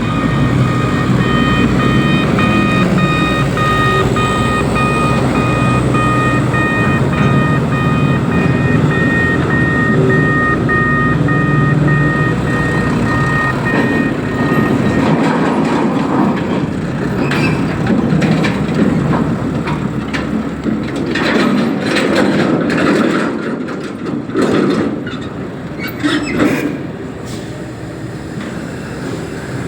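Reach stacker's diesel engine running under load, with a pulsing warning beeper for roughly the first half. After the beeper stops, the engine runs on with scattered knocks and clatter.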